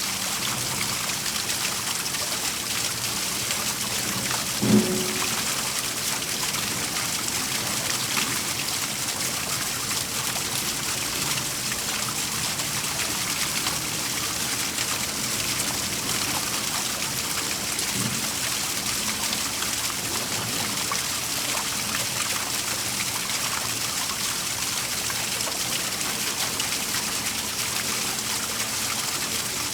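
Waterfall, its water falling and splashing in a steady, even rush. A short low thump sounds once about five seconds in, and a fainter one later.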